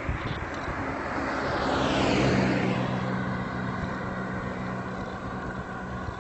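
A motor vehicle passes close by with a falling whoosh, and then a steady engine hum goes on.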